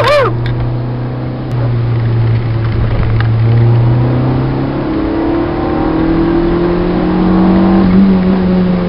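Citroen Saxo VTS four-cylinder engine heard from inside the cabin, holding a steady note, then revving steadily higher under acceleration through the second half before easing off near the end. Two short high warbling glides sound right at the start.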